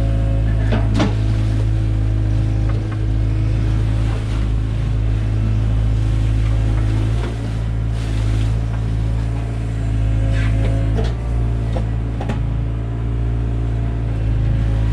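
Takeuchi TB175 compact excavator's diesel engine running steadily under working load, dipping in pitch a couple of times as the load changes. Occasional short knocks and scrapes from the bucket come through over it.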